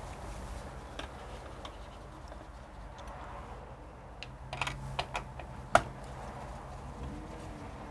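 Light clicks and taps of computer parts being handled during removal of a PC's water cooler. A few come close together past the middle, with one sharp click just before six seconds in, over a low steady hum.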